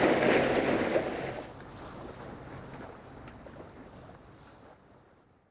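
Ocean waves and wind on open water, loud for about the first second and a half, then fading out to silence.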